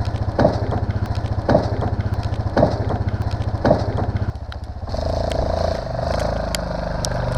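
Yamaha Grizzly 660 ATV's single-cylinder engine idling steadily, with footsteps crunching through deep snow about once a second. The engine note changes about five seconds in.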